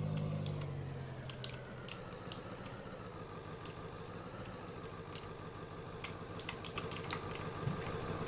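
Pickup truck engine idling with a steady low hum, with many irregular sharp clicks and ticks over it.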